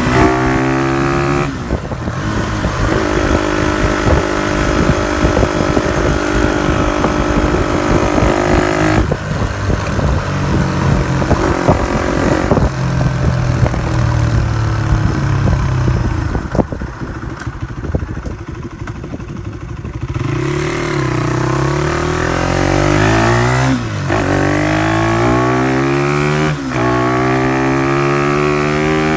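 Honda CY50/80 small motorcycle engine running through an aftermarket exhaust, revving up and down repeatedly. A little past the middle it drops lower and quieter for a few seconds, then climbs again in several rising revs.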